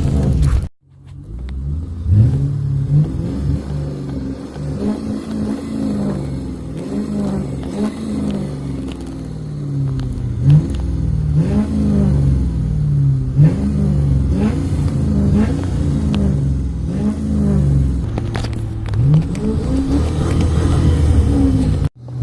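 V8 car engine revved again and again, its pitch climbing and falling back about once every second or so. The sound cuts out briefly just under a second in.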